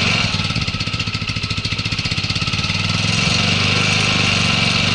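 A Pioneer 125 motorcycle engine idling cold just after starting, left to warm up. It wavers slightly in the first couple of seconds, then settles into a steady, even idle.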